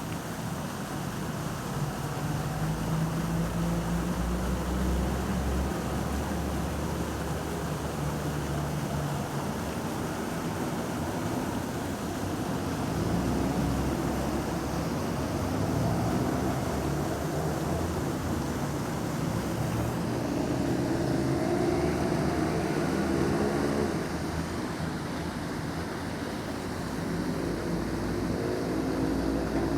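Busy city-square ambience: a steady wash of fountain water under the hum of vehicle engines. A low engine drone holds for the first third, and other wavering engine-like tones come and go in the second half.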